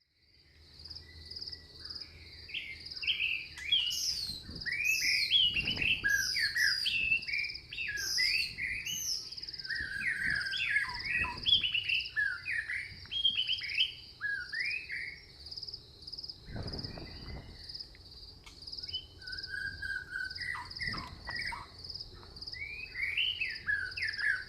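Woodland bird chorus: several birds chirping and singing in quick, overlapping phrases, over a steady high insect trill. It fades in from silence at the start.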